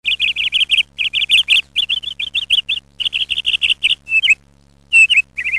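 Small bird chirping in quick runs of sharp, high notes, several notes a second, broken by short pauses, over a faint steady low hum.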